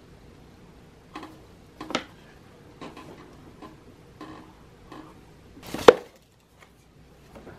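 Light knocks and clicks of objects being handled and set down on a hard surface, one every second or less, the loudest a sharp clack about six seconds in.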